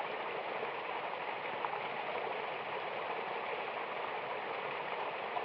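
Mountain waterfall rushing steadily: an even, unbroken hiss of falling and flowing water with faint small splashes.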